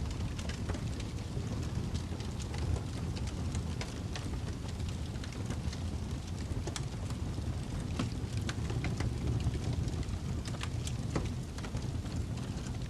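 Wood fire in a fireplace crackling: a steady low rumble with scattered sharp pops and crackles throughout.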